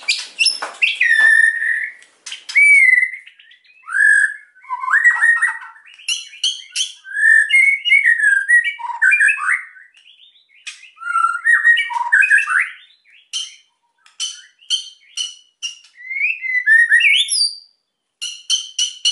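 White-rumped shama (murai batu) singing hard and agitated: a varied run of clear, gliding whistled phrases broken by quick strings of dry ticking notes, with short pauses between phrases.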